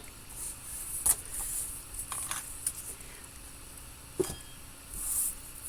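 Paper rustling with a few light taps and clicks as craft supplies and cardstock are handled on a worktable, and one sharper knock about four seconds in.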